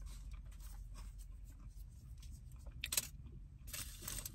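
Small rustling and clicking handling sounds of food containers and utensils, one short burst about three seconds in and another near the end, over a steady low hum inside a car.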